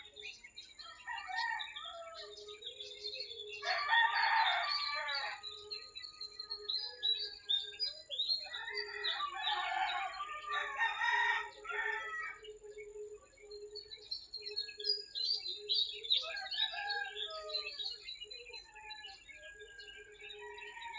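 A rooster crowing twice, about four seconds in and again from about nine to twelve seconds, over small birds chirping throughout. A faint steady high tone runs underneath.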